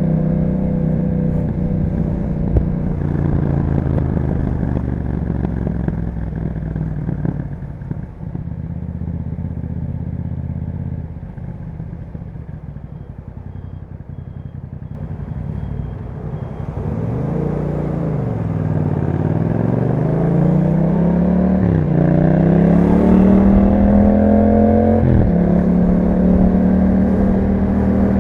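2021 Yamaha MT-07's parallel-twin engine through an Akrapovic exhaust, on the move. It runs steadily, goes quieter and lower for a few seconds, then the revs rise and fall once. It then accelerates with pitch climbing through two upshifts a few seconds apart, and settles into a steady, louder cruise near the end.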